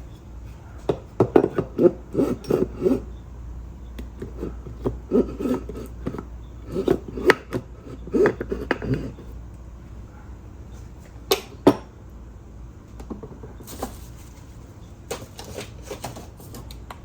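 Hard objects being handled and set down on a work table: clusters of knocks and clatter, with two sharp clicks a little past the middle.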